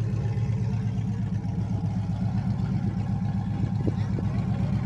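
Engine of a street stock Dodge Ram mud truck idling, a steady, rapidly pulsing low rumble.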